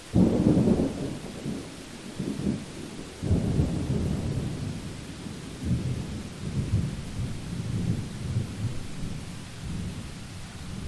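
Thunder breaks suddenly and rumbles low and long, swelling again about three seconds in and fading near the end, over the steady hiss of rain.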